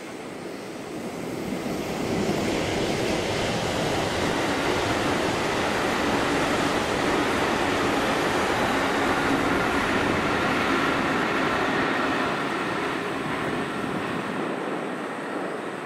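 Electric passenger train crossing a concrete railway viaduct: the wheel-on-rail rumble swells over the first two seconds, holds steady, then fades over the last few seconds as the train moves away.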